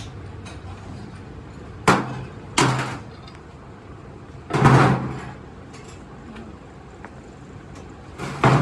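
Four separate loud bangs: two sharp knocks about two seconds in, a heavier, longer bang near the middle, and another near the end, over a low steady hum.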